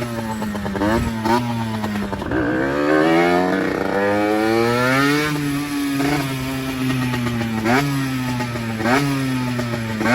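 A 50cc motorcycle engine running under way. It revs up steadily over about three seconds from roughly two seconds in, then holds its pitch, with short sharp bursts breaking in every second or so.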